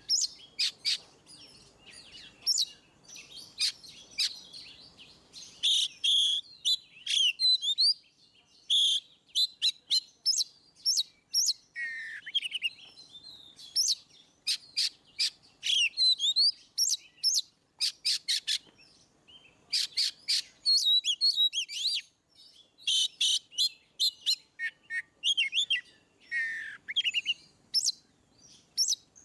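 Oriental magpie-robin (kacer) singing a loud, full song: rapid runs of sharp clipped notes mixed with whistled glides, in phrases broken by brief pauses.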